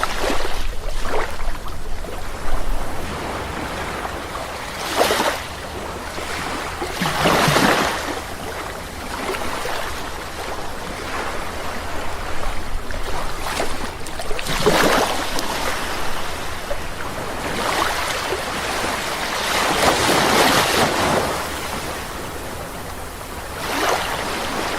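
Waves breaking and washing up on a sandy beach. Louder swells come at irregular intervals of a few seconds, over a constant wash of surf.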